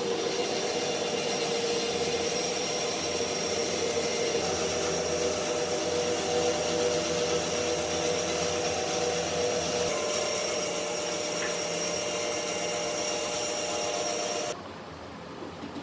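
An electric power tool running steadily on wood, a rough rushing noise with a steady hum of several tones. It cuts off suddenly near the end.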